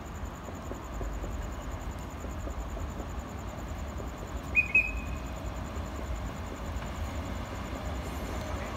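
Low, steady rumble of a locomotive-hauled passenger train drawing into the station. About halfway through come two short, loud, high-pitched chirps.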